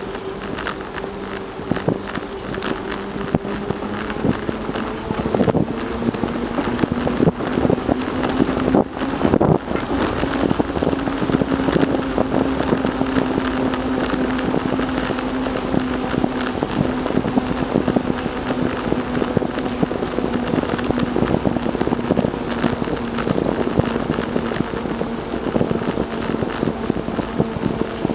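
Riding noise from a moving bicycle: wind buffeting the microphone and tyres rolling, with crackles and flaps. Under it runs a steady hum that rises a little in pitch about eight seconds in and eases back near the end.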